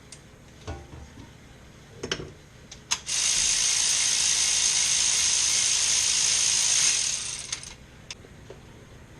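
A loud steady hiss lasting about four and a half seconds, with a few short knocks and clicks before it and after it.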